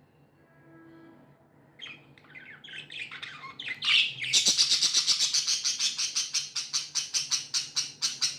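Pet budgies chirping: quiet at first, then scattered high chirps build from about two seconds in, and about halfway through they break into a loud, rapid, even run of chirps, about five a second.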